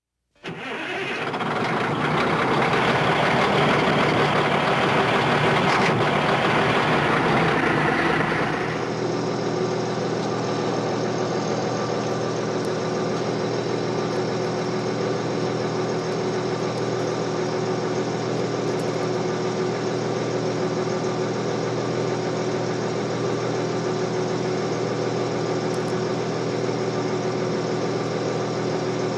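Heavy diesel earthmoving machinery running. For about the first eight seconds it is louder and rougher. Then, after an abrupt change near nine seconds, it settles into a steady, even engine drone.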